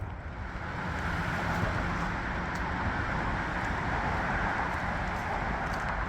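Steady rushing background noise that swells slightly about a second in, with faint light crackles over it.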